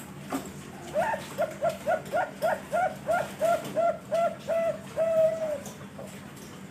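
Zebra dove (Thai-bred perkutut bangkok) singing: a run of about a dozen short, quick coos at about three a second, ending on one longer held note.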